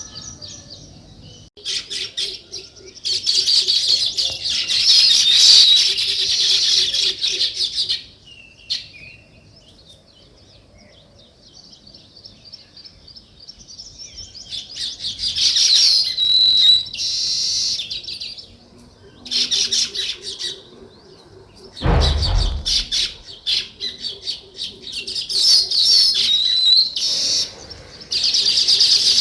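A flock of small birds chattering in bursts of rapid, high chirps, with a quieter stretch in the middle. A brief dull thump comes about two-thirds of the way through.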